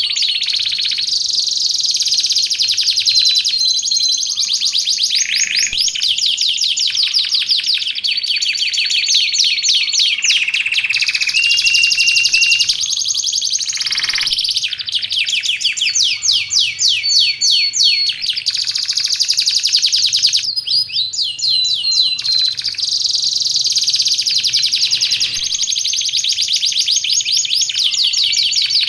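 Domestic canary singing a long, continuous song of fast trills and rolls: runs of rapidly repeated high notes, broken by a few short held whistles and brief pauses.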